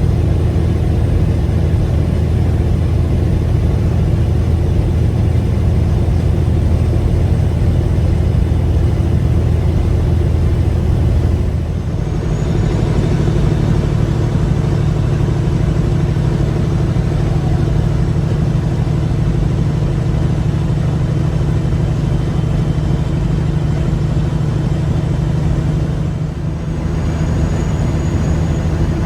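Peterbilt 359 dump truck's diesel engine running steadily on the road. The engine note dips and changes twice, about twelve seconds in and again near the end.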